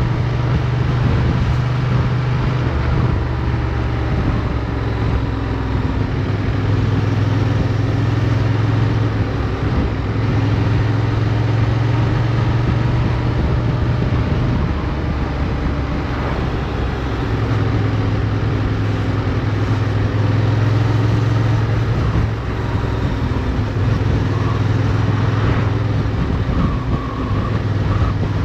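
Motorcycle engine heard from an onboard camera while riding, running steadily with its note shifting several times as the rider works the throttle through turns.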